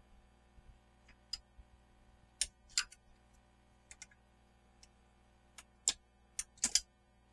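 About a dozen irregular, sharp clicks and light taps of tools and small parts being handled, with the loudest bunched together near the middle and near the end.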